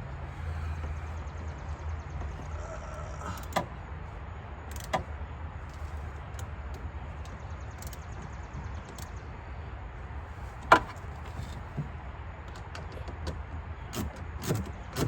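Scattered clicks and light knocks from hands working on car side marker light parts, over a steady low hum. There is one sharper knock about eleven seconds in, and quicker clicks near the end.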